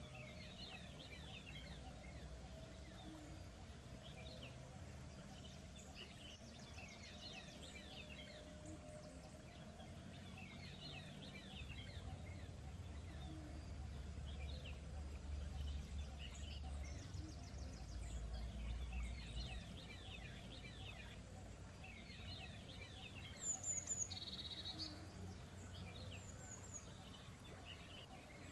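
Wild birds singing: short, quick chirping trills repeat every few seconds, with higher thin calls and one louder call about two-thirds of the way in, over a steady low rumble.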